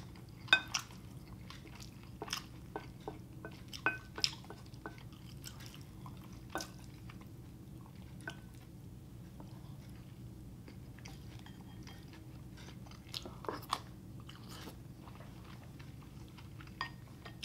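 Close-miked chewing of a mouthful of beef and rice, with scattered soft mouth clicks and smacks, more of them in the first few seconds and again near the end, and a wooden spoon scooping from the bowl midway.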